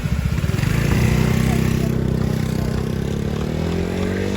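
Lambretta scooter two-stroke engine running, with rapid firing pulses for about the first second, then a steady note that rises in pitch near the end.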